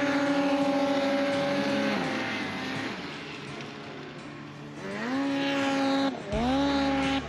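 Snowmobile engine revving up and held at high revs under throttle, easing off about two seconds in. It revs up again twice near the end, with a brief dip between.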